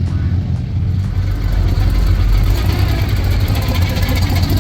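A car engine running with a loud, deep rumble that swells for a second or two and then settles.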